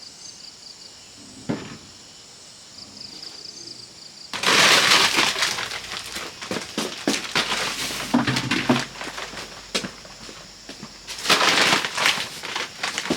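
Loud crackling and snapping, full of sharp clicks, in two spells: the first about four seconds in, the second near the end, after a quiet start with a single knock.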